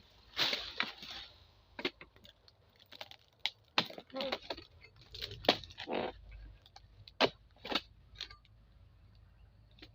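Irregular sharp cracks and crunches with dry rustling, as of hard oil palm fronds being hacked and handled during harvesting. The hits are uneven, some loud, and thin out near the end.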